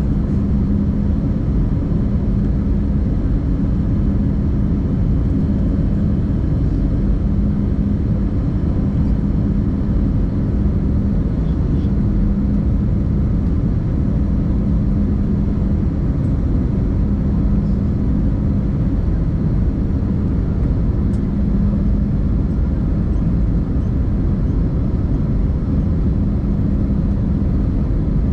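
Steady cabin noise of an Airbus A320-200 jet airliner, with a low hum that swells and fades about every two seconds.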